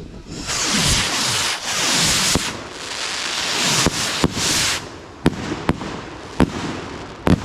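Fireworks going off: long loud hissing bursts with falling whistle-like tones for the first few seconds, then a string of sharp bangs over the last three seconds.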